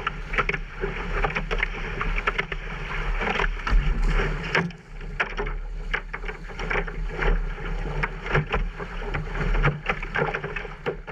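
A boat out on the water: a steady low rumble with many short knocks and splashes throughout.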